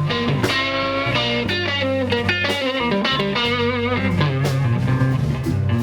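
Slow electric blues played by a guitar, bass and drums trio: the electric guitar plays a lead fill of bending notes between vocal lines, over the bass and drums.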